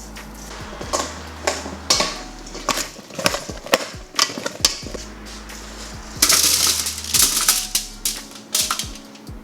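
Kitchen prep clatter: irregular clicks and knocks of utensils and dishes, with a denser rasping stretch about six seconds in. Background music with a low bass line plays underneath.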